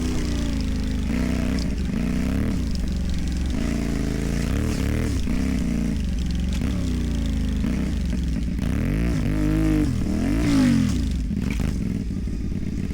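CFMOTO 450MT's parallel-twin engine through a modified exhaust, revving up and down again and again with the throttle while riding off-road, the highest rev about ten seconds in.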